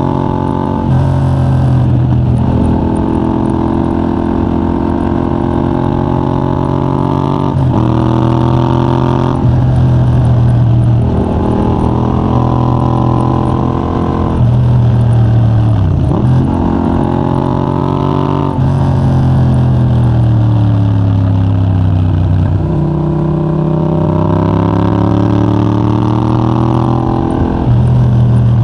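Yamaha MT-07's 689 cc parallel-twin engine through a de-catted Mivv GP Pro titanium exhaust with a 35 mm dB killer, pulling hard. The revs climb again and again, with a quick drop at each gear change. Twice the revs fall off more slowly as the rider eases off and downshifts.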